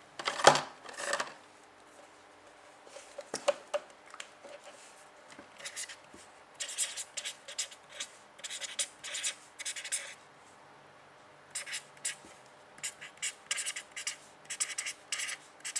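Pen or marker writing on a surface: clusters of short, high-pitched scratchy strokes with brief pauses between words, after a sharp knock about half a second in.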